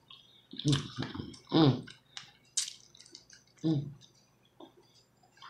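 Close-up eating sounds of chewing tender beef neckbone meat: wet squishing and small mouth clicks and smacks, with three short vocal sounds from the eater.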